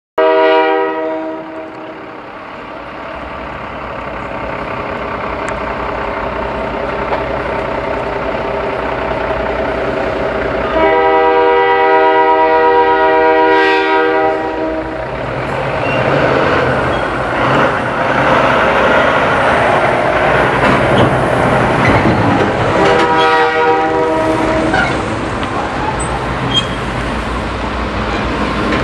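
Diesel freight locomotives led by a CN GP38-2 sounding a multi-note air horn as they approach: a blast at the start that fades, a long blast about eleven seconds in, and a shorter one near twenty-three seconds. Between and under the blasts, engine and rail noise grows steadily louder as the train draws near.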